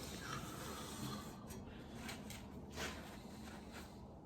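Faint rubbing and wiping of a rag cleaning spilled engine oil off the lift table, with a soft knock a little under three seconds in.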